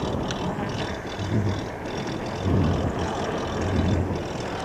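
Loaded EGO Seagull 500W 48V e-bike rolling along, with tyre and wind rumble and a recurring noise from the bike that comes and goes in low swells: something on the bike rubbing.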